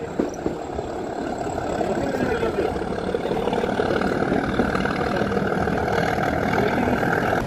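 Metre-gauge Nilgiri Mountain Railway coach running along the track, heard at an open door: a steady rumble and clatter of wheels on rails, with a higher hiss that grows louder from about three seconds in.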